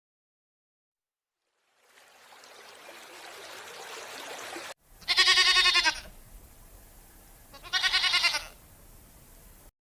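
Two quavering bleats from a goat-like farm animal, each lasting under a second and about two and a half seconds apart, over a faint steady background hiss.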